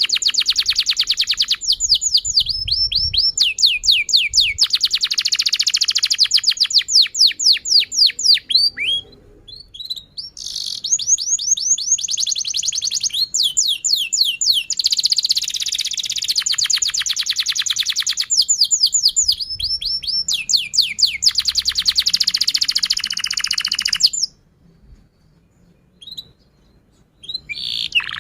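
Domestic canary singing long phrases of rapid trills and quick repeated chirps, with two short breaks in the song.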